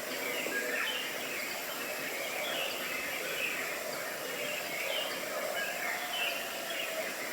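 Birds chirping on and off over a steady outdoor background noise.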